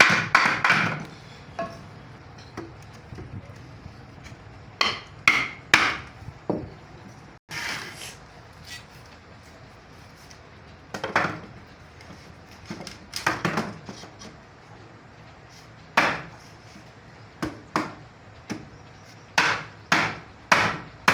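Hammer blows on wood, as nails are driven into a wooden frame: sharp knocks, mostly in quick groups of two or three, with pauses between groups.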